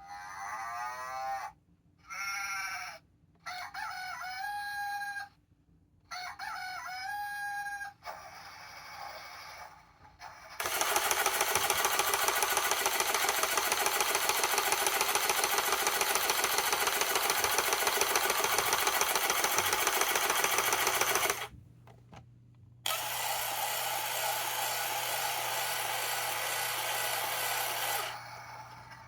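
Toy tractor's electronic sound effects played through its small speaker. First comes a string of short pitched calls with gaps between them. Then a long, fast-pulsing rumble sound lasts about ten seconds, stops briefly, and a second steadier rumble follows.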